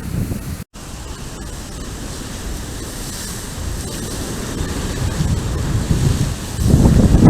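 Wildfire roaring past a Stealthcam DS4K trail camera, a steady rushing noise with a deep rumble, buffeting the camera's microphone. It cuts out for an instant a little under a second in, and the rumble grows louder near the end.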